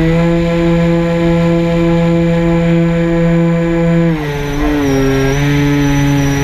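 Quadcopter drone's motors and propellers humming at a steady pitch, dropping to a lower pitch about four seconds in.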